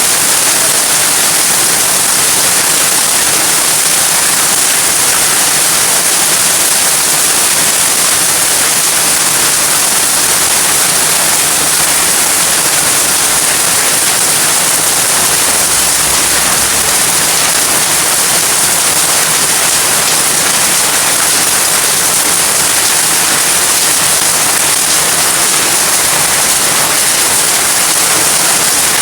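Heavy rain falling, a loud steady hiss that does not change.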